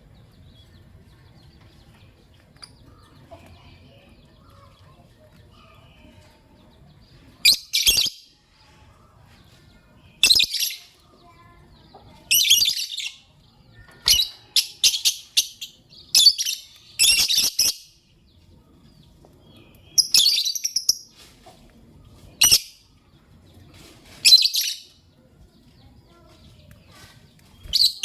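Lovebird chirping in short, high-pitched bursts: quiet for the first several seconds, then about ten chirp bursts a second or two apart.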